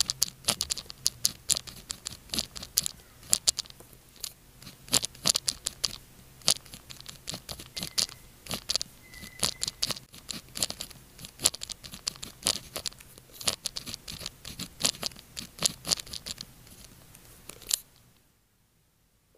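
Close-up pen nib scratching on paper in quick, irregular short strokes, the sound of Chinese characters being written out by hand. The writing stops abruptly about 18 seconds in.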